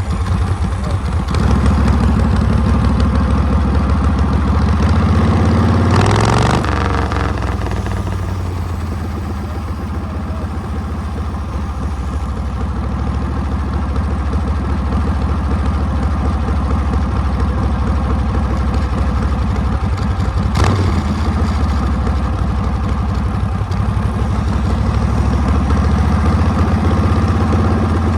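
Harley-Davidson Panhead V-twin engine running under way, heard from the rear of the bike. It eases off for a few seconds about a third of the way in and picks up again. A brief sweep comes about 6 seconds in, and a single sharp knock about 20 seconds in.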